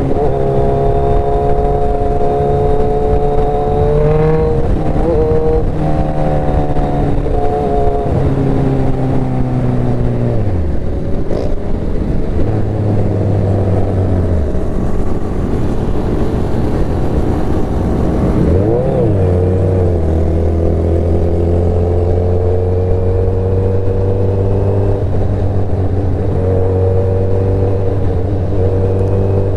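Motorcycle engine running steadily under way, its pitch falling about ten seconds in and dipping and climbing again a little before twenty seconds, then holding steady.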